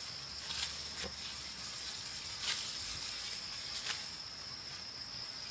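Insects in a rice field keeping up a steady high-pitched drone, with four short dry crackles from handling or moving through rice stalks, the loudest about halfway through.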